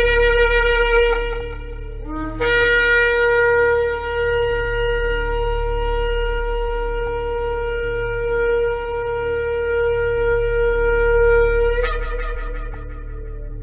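Shofar blown in long held blasts. A blast breaks off about two seconds in, then after a brief lower note comes one long steady blast of about nine seconds that jumps up in pitch at its end and dies away, over a low steady hum.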